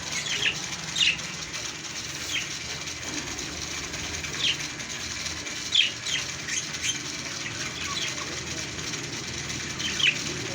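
Small pet parrots chirping: short, sharp high calls, some single and some in quick pairs, every second or so over a steady background hiss.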